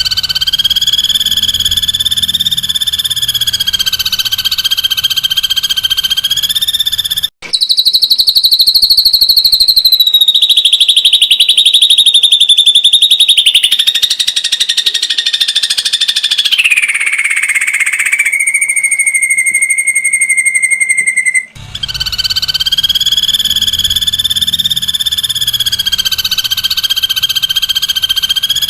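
Ashy drongo giving its rapid 'tembakan' call: long runs of a fast-pulsed trill held at one high pitch. Two brief breaks come about a quarter and three quarters of the way in, and in the middle run the pitch drops to a lower steady note.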